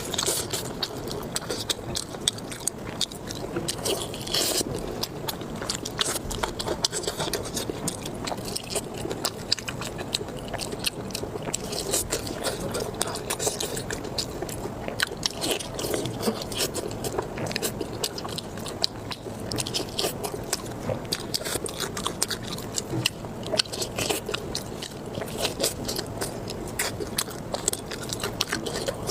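A person biting and chewing food close to the microphone: a steady run of wet clicks, crunches and scraping mouth sounds.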